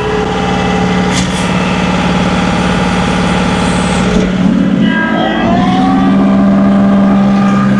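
John Deere 2038R compact tractor's three-cylinder diesel engine running steadily under load while pushing snow. About five seconds in, the engine note shifts and settles slightly higher.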